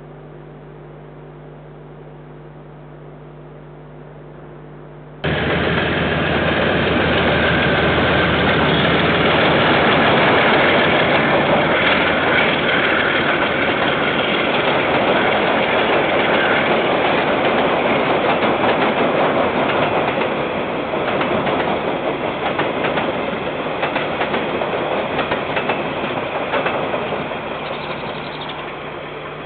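A low steady electrical hum, cut off abruptly about five seconds in by a freight train of box wagons and container wagons rolling past, its wheels rattling and clacking over the rails. The noise eases off as the end of the train passes.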